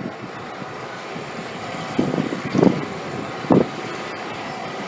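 A vehicle engine running steadily, with three short louder bursts in the second half.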